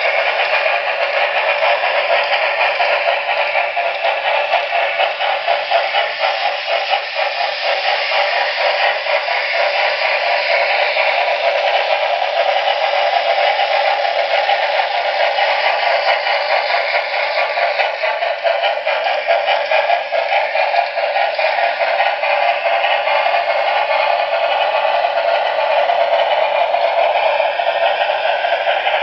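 Model steam locomotives running on a layout: steady, thin-sounding locomotive sound from the models' small onboard speakers, with clatter from wheels on the track.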